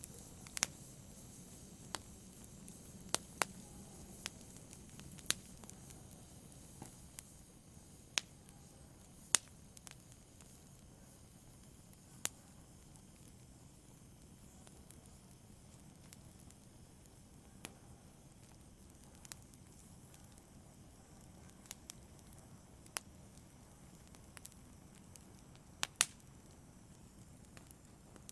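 Wood fire burning in a fireplace: a faint low hiss with sharp crackles and pops at irregular intervals, one every second or two, a few of them much louder.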